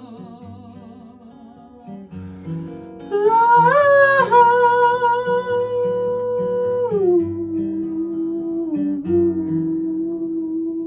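Acoustic guitar playing slow chords under a wordless hummed vocal. The voice slides up about three seconds in and holds a long note, then steps down near seven seconds to a lower held note.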